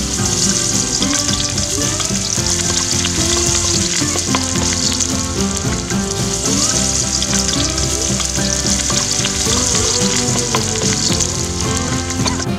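Sliced shallots and dried chillies frying in hot oil in a wok, a loud, steady sizzle.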